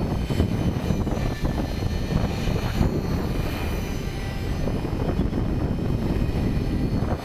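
Hobby King 450 Pro electric RC helicopter in flight, a faint steady whine from its motor and rotors, buried under heavy wind buffeting on the microphone.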